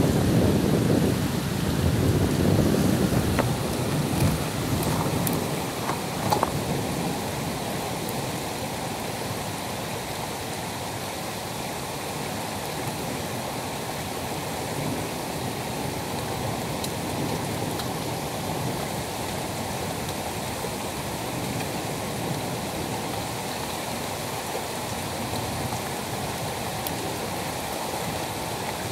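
Heavy rain falling steadily, a constant even hiss. A louder, deep rumble fills the first few seconds and dies away by about six seconds in.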